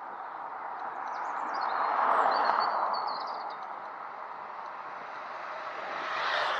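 Steady rushing road and wind noise of a bicycle ride on a country lane, swelling loudest about two seconds in and again near the end, with birds chirping briefly during the first swell.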